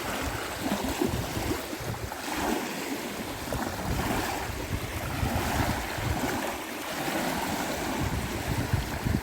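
Strong, gusty wind buffeting the microphone, with a steady rushing of wind and waves on the water behind it.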